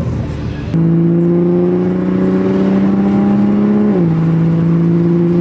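The 2020 Toyota Supra's B58 turbocharged inline-six engine and exhaust pulling under light acceleration. The drone rises slowly in pitch, then drops suddenly near the four-second mark as the gearbox upshifts, and the lower note holds steady.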